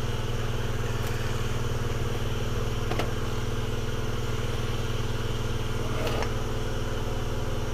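Electric porting grinder running steadily as a burr works the ports of a two-stroke cylinder: an even motor hum, with a few faint ticks.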